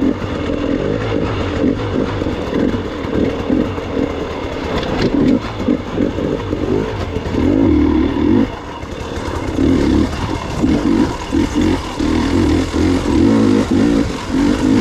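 Gas Gas EX 300 two-stroke enduro motorcycle engine being ridden hard, revving up and dropping back again and again as the throttle is worked.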